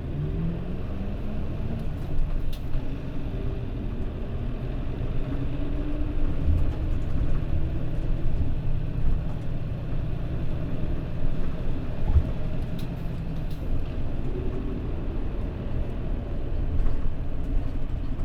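Mitsubishi Fuso Aero Star city bus's diesel engine under way, heard from inside the cabin. Its note rises as the bus accelerates in the first second or so, then it runs steadily with a couple of smaller rises in pitch over a constant low road rumble.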